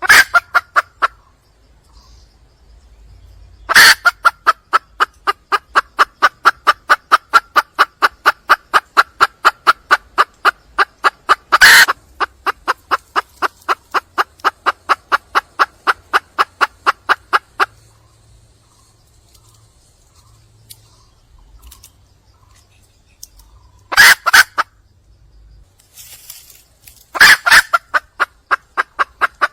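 Red junglefowl hen calling in series of rapid clucks, about three a second, each series opening with a loud harsh note. A long run of clucks starts about four seconds in and stops near 18 seconds; shorter runs come near the start, about 24 seconds in, and again near the end.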